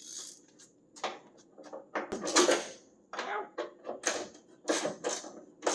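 Irregular clinks, knocks and clatter of hand tools and metal parts being handled, getting busier after about two seconds.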